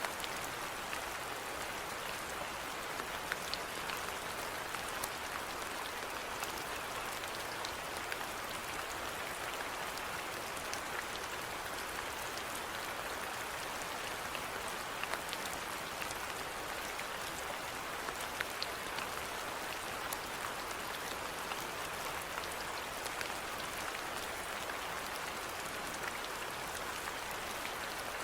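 Steady rainfall: an even hiss with many small, scattered drop ticks.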